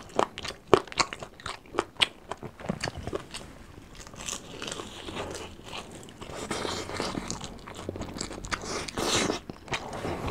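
Crispy fried chicken being bitten and chewed close to the microphone: a run of sharp crunches through the first few seconds, then softer, steadier chewing with a few louder crunches near the end.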